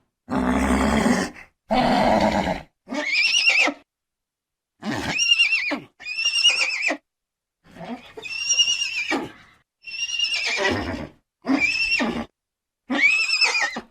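Horse neighing: a series of separate whinnies, each with a rising-then-falling, wavering pitch, about seven in all, cut apart by short silences. They are preceded by two rougher, noisier calls in the first three seconds.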